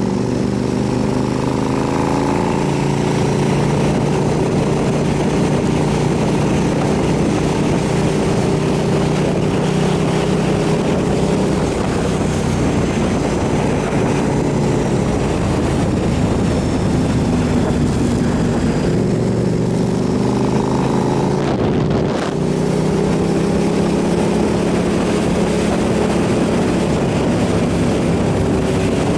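KTM 990 SMR supermoto's V-twin engine running under way, its pitch rising and falling with the throttle, over wind noise. The engine note drops out briefly about three-quarters of the way through, then picks up again.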